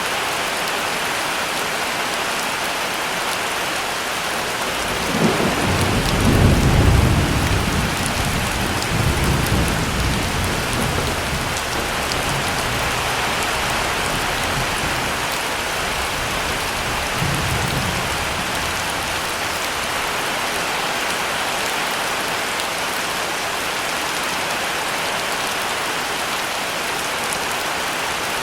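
Heavy rain falling steadily, with a roll of thunder starting about five seconds in that rumbles for several seconds before fading. A fainter rumble follows later.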